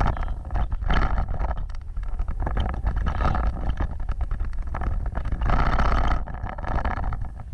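An off-road vehicle driving over rough ground: a steady deep rumble with a constant clatter of knocks and rattles, swelling louder a few times.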